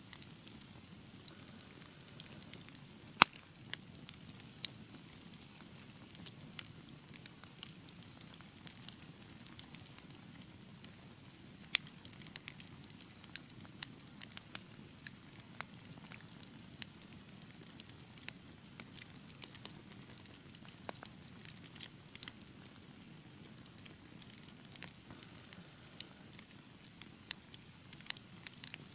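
Wood fire burning in a fireplace, crackling with irregular sharp pops over a steady low hiss; one loud pop about three seconds in.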